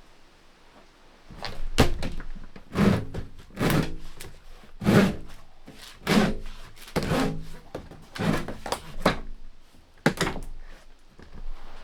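A series of about ten dull wooden thunks and knocks, roughly one a second, starting about a second and a half in.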